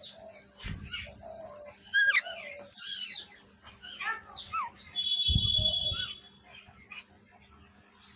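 Birds chirping: many short calls falling in pitch, with one held high note about five seconds in. There are two low rumbles, one near the start and one about five seconds in.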